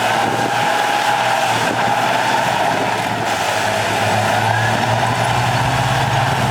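Heavy diesel earthmoving machinery running steadily, with a low engine hum and a faint whine rising slowly in pitch.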